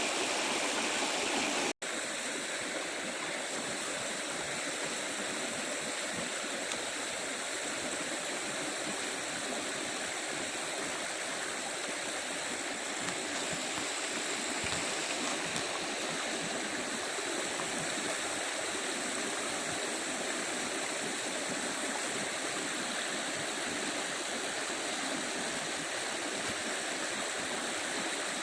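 Steady rushing of flowing stream water, with a faint steady high-pitched hum above it. It breaks off for an instant a little under two seconds in.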